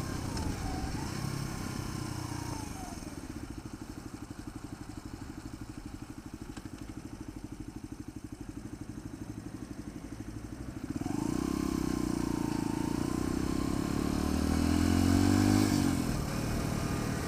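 Sinnis Apache 125 motorcycle's engine running at low revs with an even, rapid pulse. About eleven seconds in it opens up, and the revs rise for a few seconds before easing off near the end.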